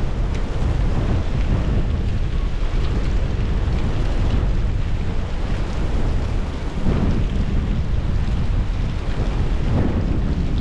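Blizzard wind buffeting the microphone, a loud, steady low rumble that swells in gusts about seven and ten seconds in.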